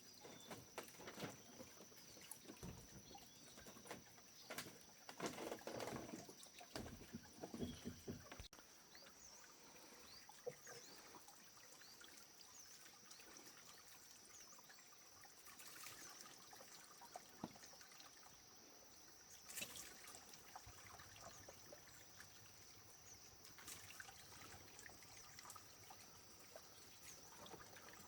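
Faint water trickling and splashing, with scattered light knocks and clatter of things being handled, busiest in the first eight seconds.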